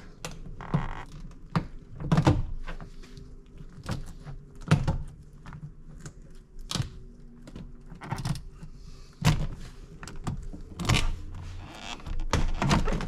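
Plastic retaining clips of a 1993 Ford Explorer's rear door trim panel popping loose as the panel is pried and pulled off the door, a series of sharp pops and knocks at irregular intervals.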